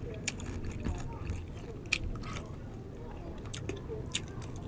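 Close-up eating of crispy deep-fried pork belly (bagnet): chewing with several sharp crunches scattered through.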